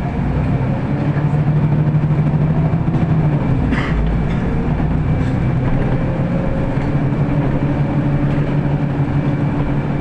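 City bus driving, heard from inside the passenger cabin: a steady engine drone with road rumble, swelling a little early on, and a brief rattle about four seconds in.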